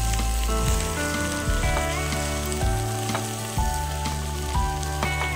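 Ground beef and mixed vegetables sizzling in a frying pan as a spatula stirs and scrapes them out, with scattered clicks of the spatula against the pan. Background music with held notes and a slow bass line plays over it.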